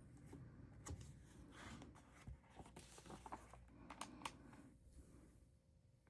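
Near silence with faint rustling and a few small clicks, as of a paper picture book being handled.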